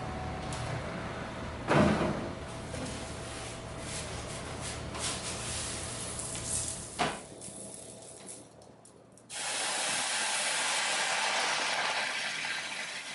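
Two knocks of metal or an oven door, then a sudden loud steam hiss about nine seconds in that lasts a few seconds and fades: hot water poured onto preheated pie weights in the oven to make steam for the bread.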